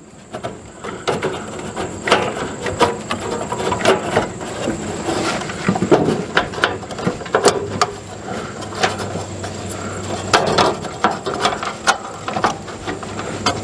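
Irregular clicks, knocks and scraping of hard plastic and metal as a new plastic RV furnace blower wheel is worked by hand onto the blower motor shaft, not quite going on.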